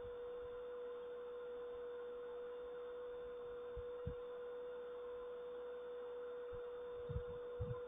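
A steady hum held at one pitch over faint hiss, with a few soft low thumps about halfway through and a cluster of them near the end.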